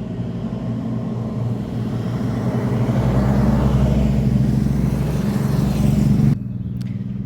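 Road traffic passing close by, very noisy: a motor vehicle's engine and tyres grow louder over a few seconds as it passes. The sound drops off abruptly near the end.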